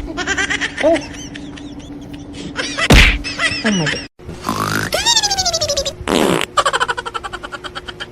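A string of short buzzy, squeaky fart noises, several of them gliding down in pitch, broken by two sharp cracks at the start and about three seconds in.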